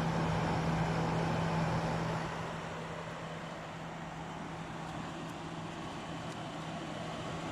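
Maytag (Fedders) 8,000 BTU air conditioner running with its compressor on: a steady hum under the rush of the fan. About two seconds in the fan noise drops to a quieter level as the fan goes to its low speed.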